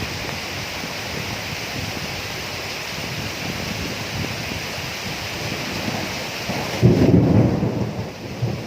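Steady rain falling, with a sudden thunderclap about seven seconds in: a loud low rumble that dies away over a second or two.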